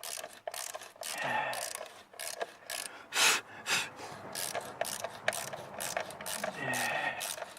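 A hand ratchet wrench clicking in quick, uneven runs as it works fasteners on a car engine, with a louder scrape about three seconds in.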